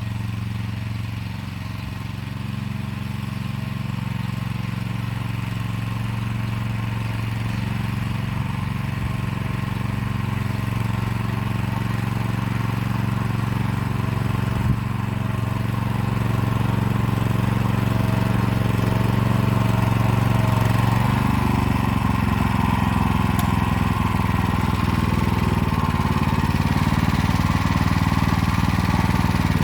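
Motor Sich walk-behind tractor engine running steadily under load while pulling an arrow-type hiller along a row, growing gradually louder. About 21 s in its tone drops and turns rougher, as the load changes. There is one sharp click in the middle.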